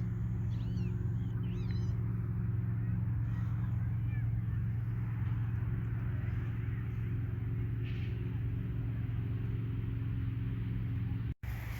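A steady, low engine drone runs throughout. Over it, in the first two seconds, a few bird calls rise and fall in pitch.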